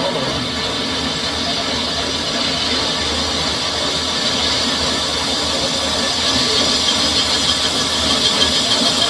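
A metal lathe turning a sugarcane juicer roller bush, its cutting tool taking a steady cut: a continuous high-pitched hiss or squeal over the machine's hum.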